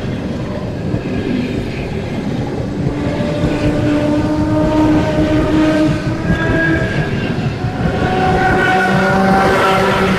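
Suburban electric train running by, a steady rumble of wheels on rail under several steady tones that shift in pitch.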